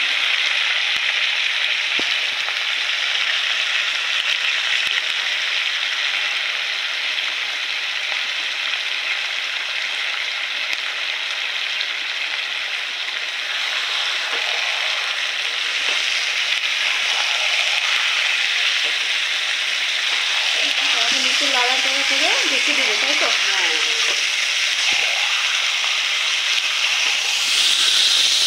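Chicken and onions sizzling steadily in hot oil in a kadai, being stir-fried with spices (kosha), with a metal spatula stirring and scraping the pan; the sizzle grows a little louder near the end.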